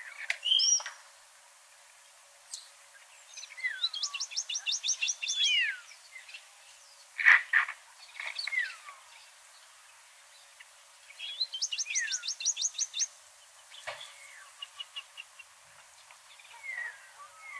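Several songbirds singing and calling: whistled notes that glide up and down, two rapid trills of about ten notes each, a shorter trill later, and a sharp chirp near the middle.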